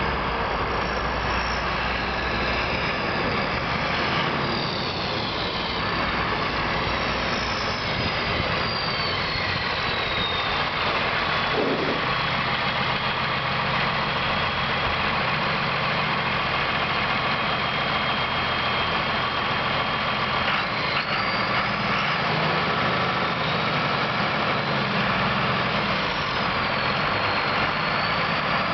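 Massey Ferguson 4270 tractor's diesel engine running steadily at idle, with a high whine that slides down in pitch a few times.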